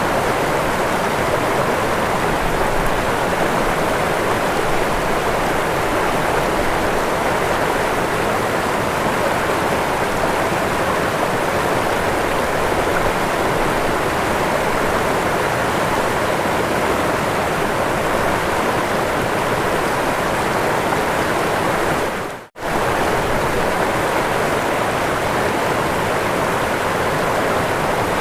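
Waterfall: a steady rush of falling water. It drops out for a split second about three-quarters of the way through, then resumes at the same level.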